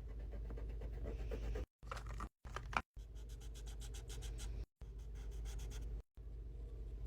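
Quick scratchy strokes on paper, as from a pen or marker drawing, over a low steady hum, cut off by short silent gaps every second or so.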